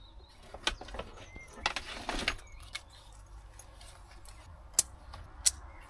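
Scattered clicks and light clattering of small hard objects being handled, with a rustling clatter about two seconds in and two sharp clicks near the end.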